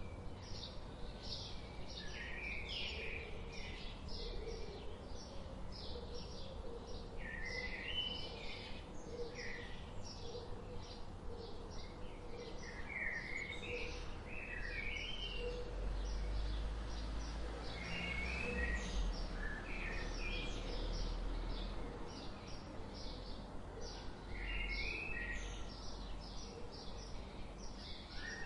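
Songbirds chirping and singing: a steady stream of quick, high chirps, with warbled phrases now and then. A low rumble swells in the middle.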